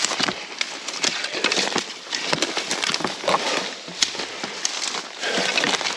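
Footsteps crunching through dry brush, with irregular snaps and crackles of twigs and leaves underfoot.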